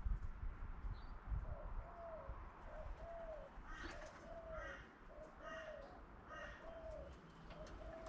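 Birds calling: one gives a steady series of short, low, arching notes, about one every 0.7 seconds, and a second bird adds a few higher chattering calls midway. A few low bumps come near the start.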